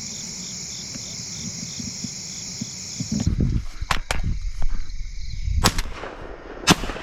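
Steady cricket chirring, which cuts off about three seconds in. Rumbling handling noise and a string of sharp shotgun reports follow, the loudest near the end.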